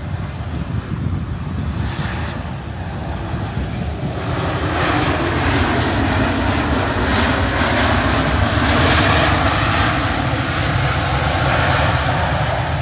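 Airbus A380 jet engines running: a steady low rumble with a rushing hiss that swells about four seconds in and stays loud.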